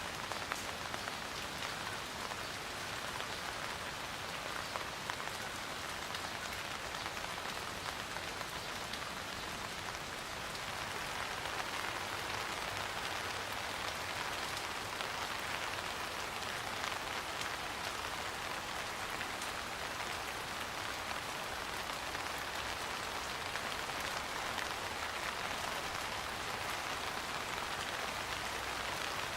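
Steady rain falling, with many small drops pattering on a surface; the rain gets a little heavier around a third of the way in and keeps on evenly.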